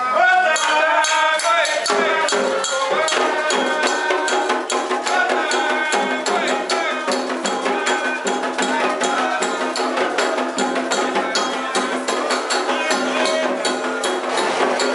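Candomblé chant: voices singing over steady shaker and rattle percussion.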